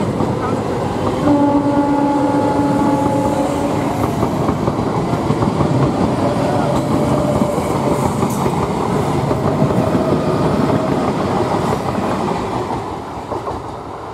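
ICF Medha electric multiple-unit train running past close by, its wheels clattering over the rail joints. A two-tone horn sounds for about two seconds, a little over a second in, and the running noise eases off near the end.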